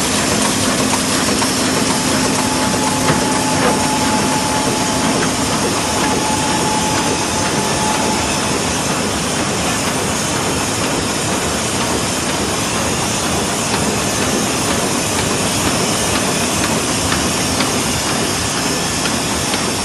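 Müller Martini 3215 book thread-sewing machine running steadily, a dense, even mechanical noise. A faint steady whine sounds over it for the first several seconds.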